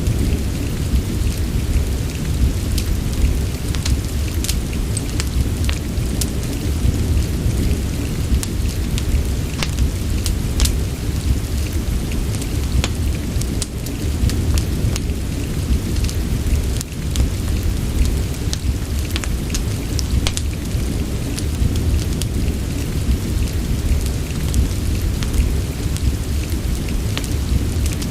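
Steady rain mixed with a wood fire crackling: a dense, even rumble underneath, with sharp pops and crackles scattered irregularly throughout.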